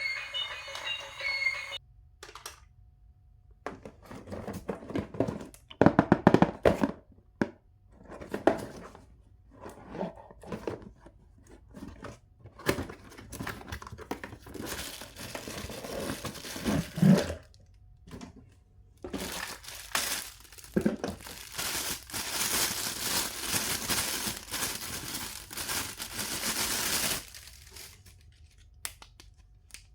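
Toy packaging being opened and handled, with irregular crinkling, rustling and tearing of plastic and cardboard, scattered with small knocks. A longer stretch of steady rustling or tearing comes in the latter part.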